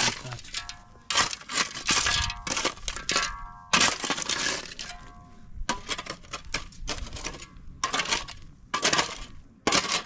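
Loose gravel and stones crunching and clinking in irregular bursts, about one every half second to a second.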